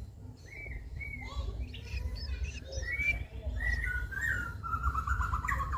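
A bird calling: a series of short chirps that step gradually lower in pitch, running into a fast trill near the end, over a steady low rumble.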